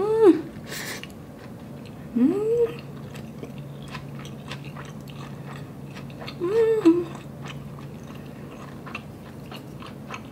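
Close-up chewing of a mouthful of inari sushi (sweet fried tofu pouch filled with vinegar-seasoned rice, topped with vegan mayo and green onion): soft wet mouth clicks and smacks throughout. Three short closed-mouth hums of enjoyment, at the start, about two seconds in and about six and a half seconds in.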